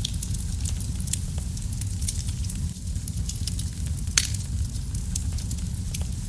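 Wood fire burning in a fireplace: a steady low rumble of flames with irregular crackles and pops, one louder pop about four seconds in.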